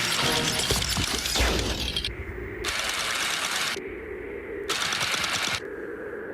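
Cartoon chase sound effects: rapid clattering for about two seconds, then three separate bursts of hissing noise about a second apart over a low steady hum.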